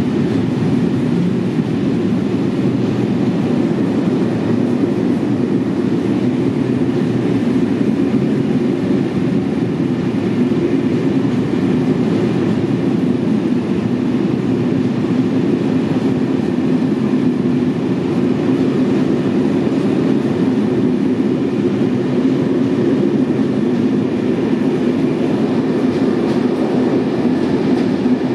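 A train of passenger coaches hauled by an SNCF BB7200 electric locomotive rolling past and departing from an underground station platform: a steady low rumble that holds an even level throughout.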